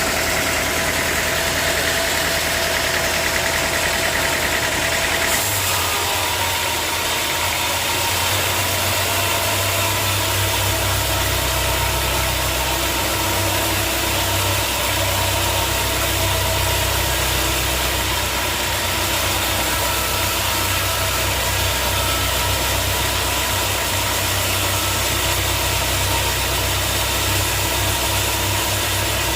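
Sawmill engine running steadily. About five seconds in its sound changes, taking on a stronger low hum.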